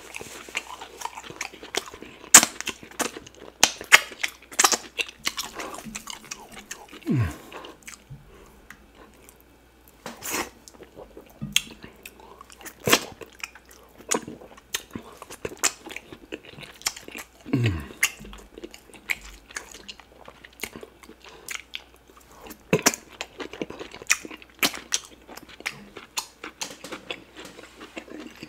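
Close-miked eating sounds of a man chewing offal and fufu in cocoyam soup: wet chewing, lip smacks and sharp mouth clicks, coming at irregular moments.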